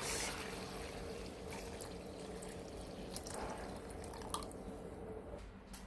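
Boiled hibiscus drink trickling and dripping through a kitchen sieve into a container, faint, with a few light ticks.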